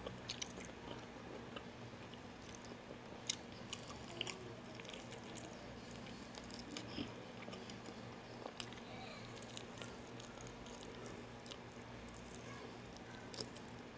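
Faint chewing and biting of native-chicken adobo eaten off the bone by hand, heard as scattered small mouth clicks and smacks over a low steady hum.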